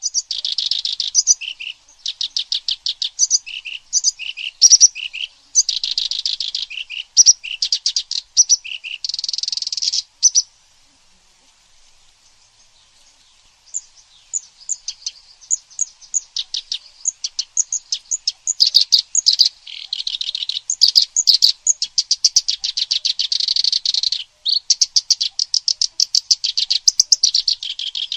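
Songbird song from a kerak basi (reed warbler) and cililin recording: rapid, sharp, high chips and trills in quick bursts. It breaks off for about three seconds near the middle, then resumes.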